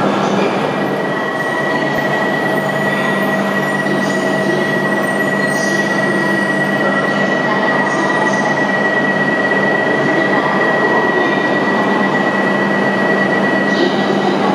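Shinkansen trains in an enclosed underground platform: a loud, steady rumble and hiss with a thin high whine held for most of the time, as a second Shinkansen pulls in on the adjacent track beside the standing H5 series.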